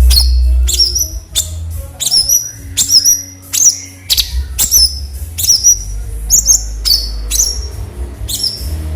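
Cucak cungkok, a bulbul, calling in the sharp 'nembak' style: a quick string of loud, sharp high chirps, each dropping quickly in pitch to a short held note, about one and a half a second, over a low steady rumble.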